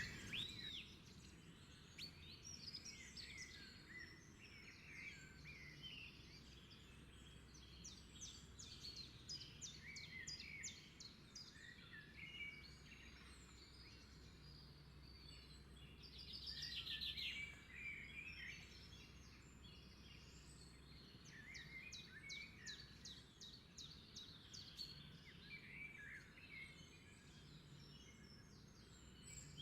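Faint birdsong: several small birds chirping and trilling on and off, with a louder rapid trill near the middle, over a faint low steady hum.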